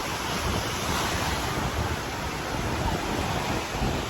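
Ocean surf breaking and washing ashore, a steady rushing noise, with wind buffeting the microphone in low rumbles.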